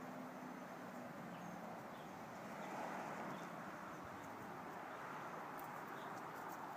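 Faint, steady outdoor background noise, with a faint low hum that fades out about a second and a half in.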